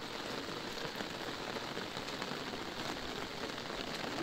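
Steady heavy rain falling on an umbrella, a dense even hiss of many small drop taps.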